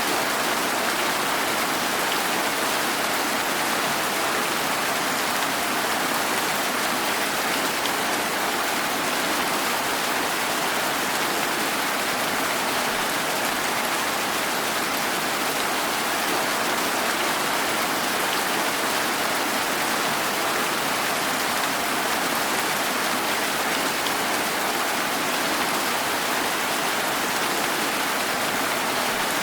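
Steady rain falling, an even hiss at a constant level, with no single drops, thunder or other sounds standing out.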